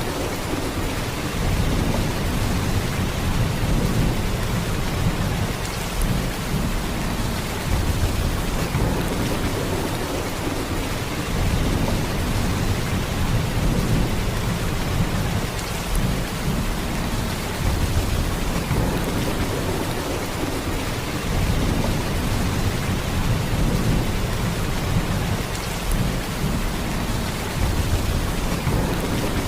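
Heavy rain falling in a steady downpour, with a deep low rumble underneath that swells and eases every few seconds.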